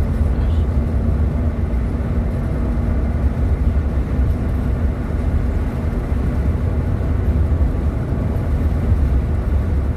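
Steady low rumble of a vehicle driving, road and engine noise heard from inside the cabin, with a faint steady hum.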